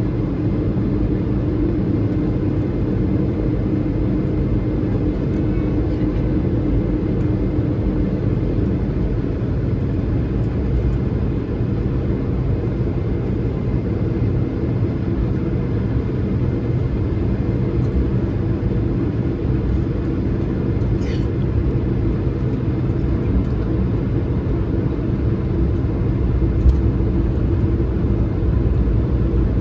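Cabin noise of an Airbus A220-300 taxiing: the steady low rumble of its Pratt & Whitney PW1500G geared turbofans running at idle, heard from inside the cabin.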